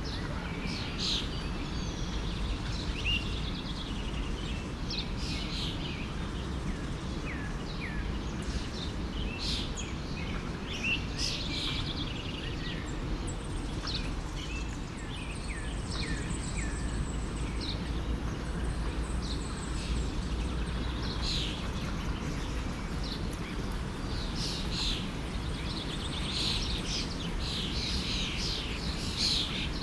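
A stream running steadily, with many small birds chirping and calling over it; the chirping thickens near the end.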